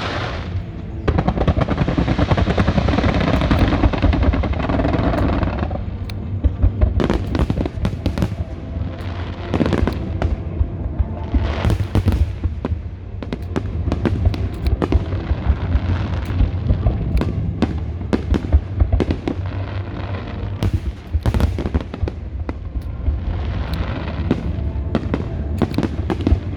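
Fireworks display going off in quick succession: many sharp bangs throughout, with a thick stretch of crackling from about a second in to six seconds and another near the end.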